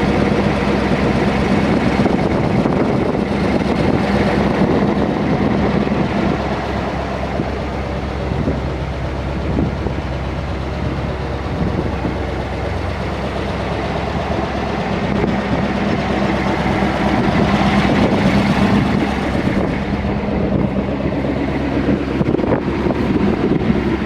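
A 1959 cab-over truck's engine running steadily at idle, with a low hum and a slight dip in level partway through.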